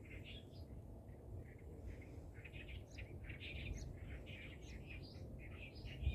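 Small birds chirping and twittering in quick, overlapping calls over a low steady rumble of outdoor background noise.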